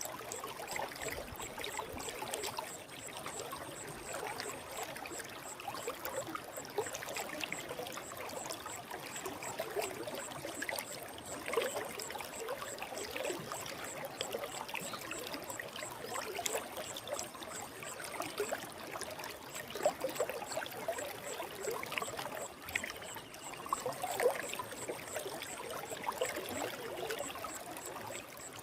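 Forest stream flowing over rocks: steady rushing water with many small irregular gurgles and splashes.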